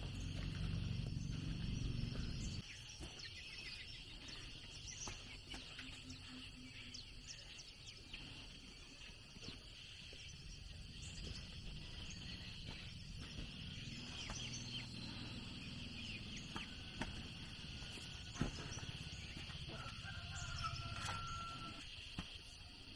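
Insects chirping steadily, with chickens clucking now and then. A low rumble fills the first couple of seconds and stops suddenly, and scattered sharp knocks follow.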